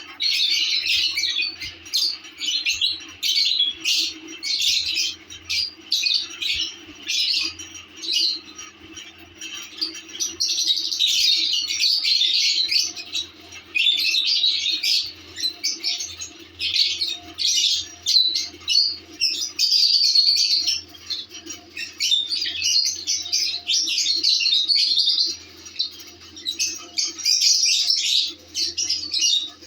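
Pet lovebirds chattering: a continuous stream of rapid, overlapping, high-pitched chirps and squawks.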